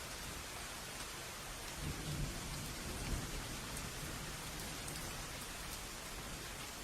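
Steady rain with a low rumble of thunder that swells about two seconds in, peaks a second later and fades back under the rain.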